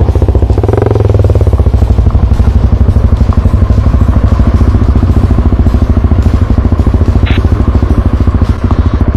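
Off-road motorcycle engine running at low revs close to the microphone, a loud, even, rapid chugging beat.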